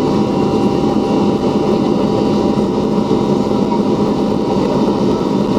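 Il-96-300 airliner's four turbofan engines heard from inside the passenger cabin during takeoff: a loud, steady rush of noise with several steady hums running through it.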